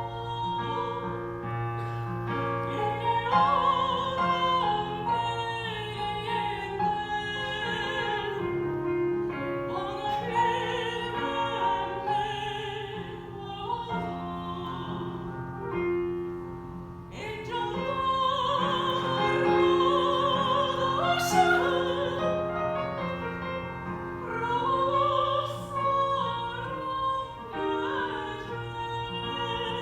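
A mezzo-soprano singing in operatic style with a wide vibrato, accompanied by piano.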